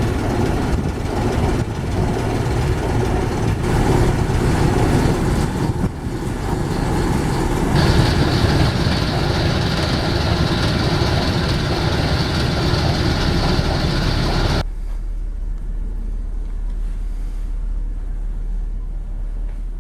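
Railway train running, a loud steady rumble and rattle with a higher hiss joining about halfway through. The noise cuts off suddenly near the end, leaving a quieter low steady hum.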